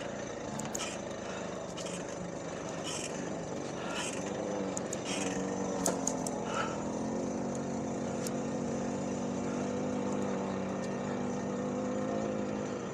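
Small 50cc two-stroke moped engine running steadily at low revs, with scattered clicks and scrapes from handling the bikes in the first few seconds.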